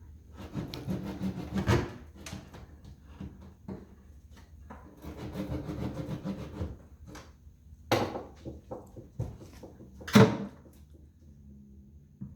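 A hand tool rasping against wood in two bursts of strokes, then two sharp knocks, the second the loudest, about two seconds apart.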